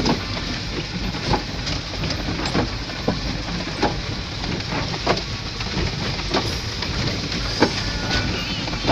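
Truck running over a rough rocky road: a steady engine and road rumble with irregular knocks and clatter as the vehicle jolts over stones, roughly one or two a second.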